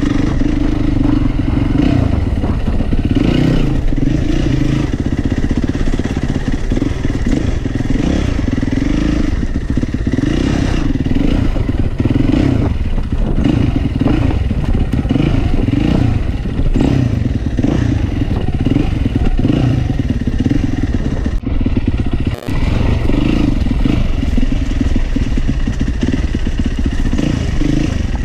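Four-stroke single-cylinder enduro motorcycle engine being ridden, throttle rising and falling every second or two. The sound cuts out briefly twice about three quarters of the way through.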